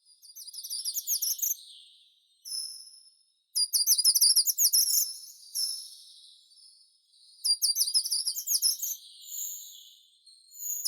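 A songbird singing in short, high-pitched phrases of quick notes, one every couple of seconds with brief pauses between them.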